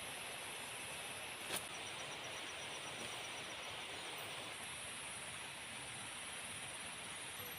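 Tropical forest ambience: a steady hiss with insects trilling high and thin. A single sharp click about a second and a half in.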